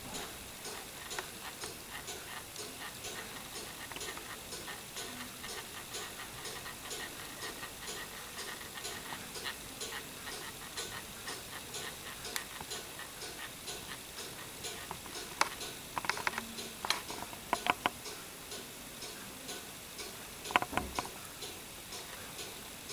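Steady mechanical ticking at about two ticks a second, with a few louder clicks past the middle and again near the end.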